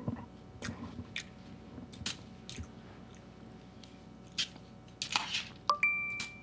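Someone chewing crunchy cereal close to the microphone, in irregular crunches. A brief steady high beep sounds near the end.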